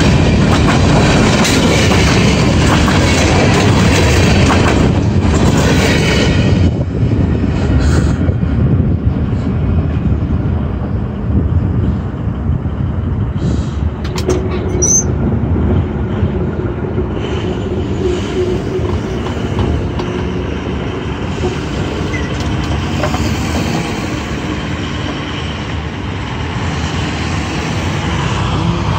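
Freight train cars rolling past over a grade crossing, wheels clattering on the rails. The noise drops about six seconds in and then eases off slowly.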